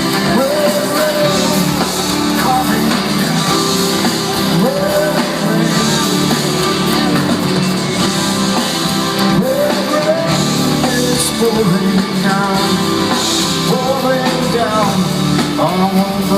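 Rock band playing, with a singer's voice over guitar and a full band.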